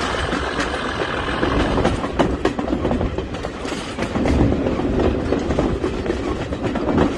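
Train running on a heritage railway, a steady rumble with the clicking of wheels over rail joints.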